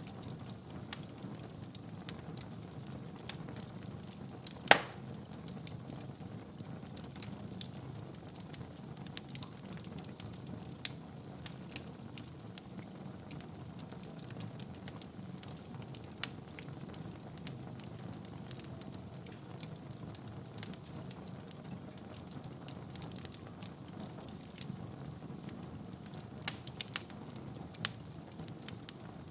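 Wood fire burning in a fireplace: a steady low rumble of flames with scattered crackles, one sharp loud pop a little under five seconds in and a few more pops near the end.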